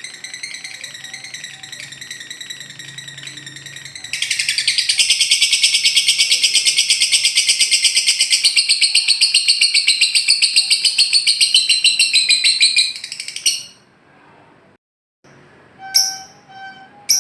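Lovebird chattering high, then breaking into its long 'ngekek' trill, a loud, fast run of even notes held for about nine seconds before it cuts off. After a brief gap, a few sharp separate chirps.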